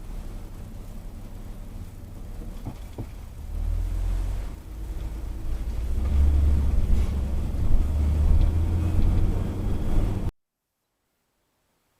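Low rumble of a moving car's engine and road noise, swelling louder about four and again six seconds in, then cutting off abruptly into silence near the end.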